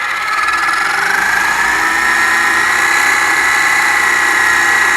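Brushed Titan 12-turn electric motor of an RC drag car whining as it runs, its pitch rising over the first couple of seconds, then holding steady.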